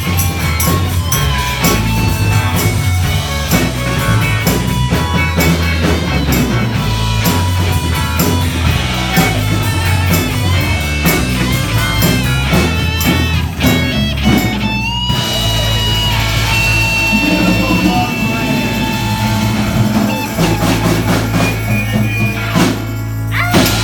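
A live band with drum kit and guitars plays the final bars of an upbeat soul song. About halfway through, the drums stop and the band holds a long closing chord over a steady bass.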